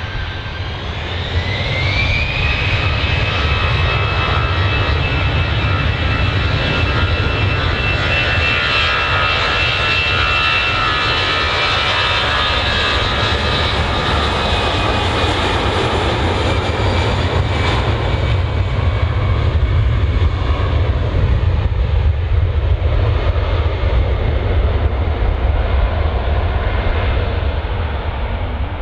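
Jet airliner engines running at high power: a whine rises over the first couple of seconds, then holds as a steady high whine over a deep rumble, easing off somewhat in the second half.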